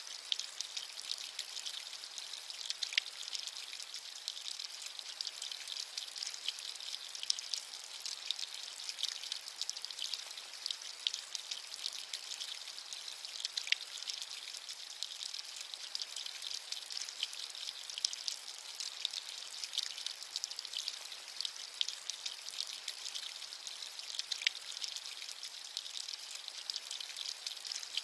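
Steady rain falling, a constant high hiss dotted with many separate drop ticks, a few of them louder.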